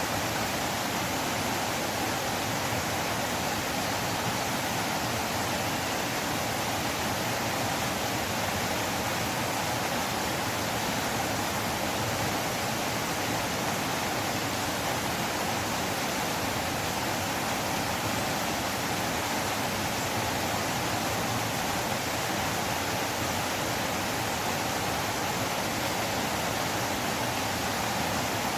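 Flowing river water rushing steadily, an even, unchanging wash of noise.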